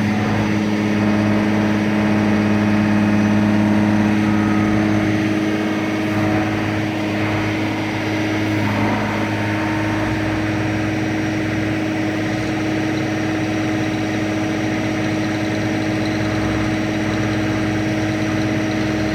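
Engine of a forestry machine running steadily, dropping slightly in pitch and level about five seconds in.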